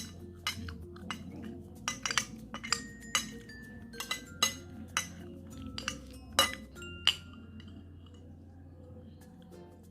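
Cutlery clinking against a plate while eating: a dozen or so sharp, irregular clinks with a short ringing tone, stopping about seven seconds in.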